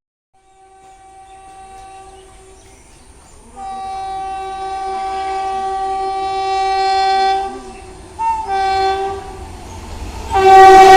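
Indian Railways train horn sounding as a fast train approaches: a faint blast, then a long loud blast, two short blasts, and a sudden very loud blast near the end as the train comes up close.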